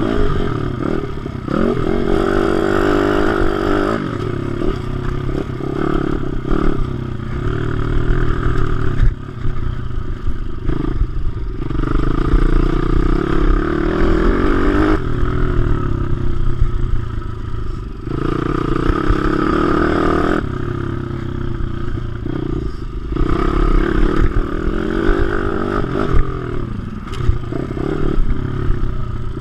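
WPB 155 pit bike's single-cylinder four-stroke engine on track, revving up through the gears again and again. The pitch drops at each gear change and each time the throttle is closed.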